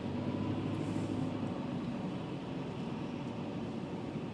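Steady low hum of a car's engine and running noise heard from inside the cabin.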